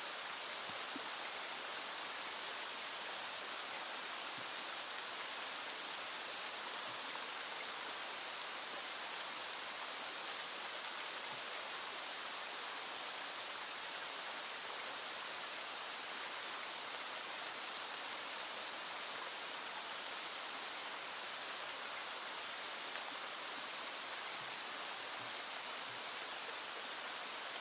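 Small stream flowing steadily, with rain falling.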